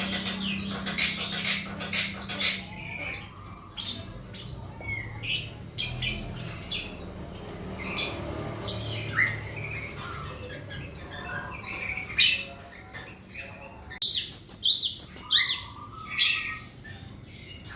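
Cinereous tit (gelatik batu) calling: a busy string of short, sharp chirps and harsher scolding notes, with a louder, denser run of calls toward the end.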